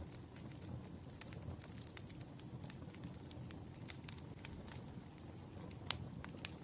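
Wood fire crackling, with irregular sharp pops and snaps over a low steady rumble of flames; one louder pop about six seconds in.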